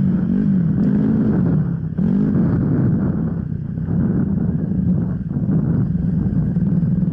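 Enduro dirt bike engine running under changing throttle. Its pitch rises and falls several times in the first couple of seconds, then holds fairly steady.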